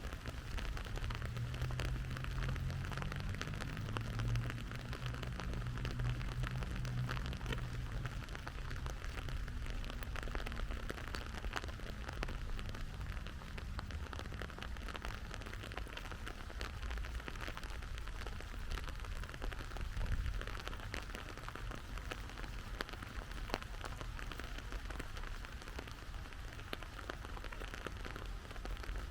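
Steady rain falling, a dense hiss of many small drop ticks over a low rumble. For the first several seconds a low hum comes in and fades away.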